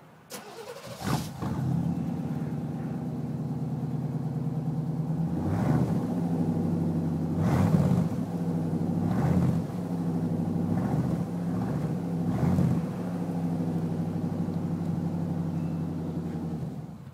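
1992 Chevy pickup's V8 engine starting after a brief crank, idling with about five short throttle revs, then shut off near the end.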